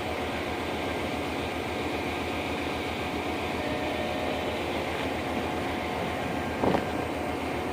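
Steady mechanical hum with faint steady tones running through it, and a brief louder sound about two-thirds of the way in.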